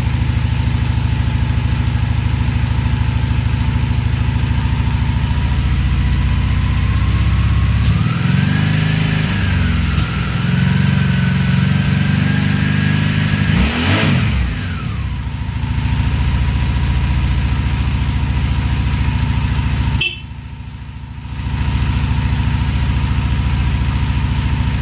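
Honda Magna VF750C's V4 engine running cold on choke while it warms up. The revs rise and fall for several seconds in the middle, and the sound drops away briefly near the end.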